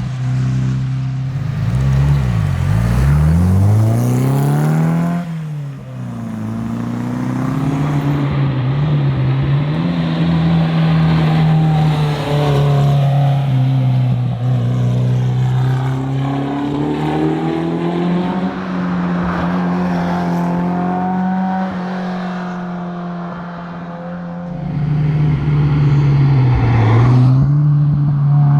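Renault Alpine A110's turbocharged four-cylinder engine under hard driving. The revs hold high for long stretches and drop sharply then climb again several times, as it shifts or lifts and reaccelerates.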